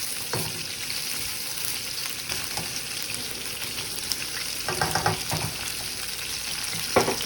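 Vegetables frying in a hot oiled wok: a steady sizzling hiss.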